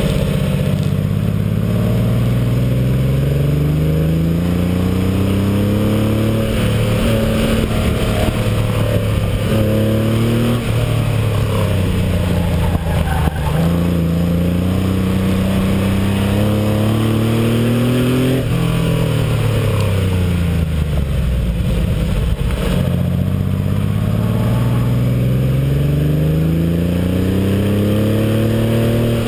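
1986 Porsche 911's air-cooled flat-six engine revving up and down again and again under hard driving, its note climbing through each pull and dropping suddenly at shifts and lifts, with wind and road noise on a body-mounted camera.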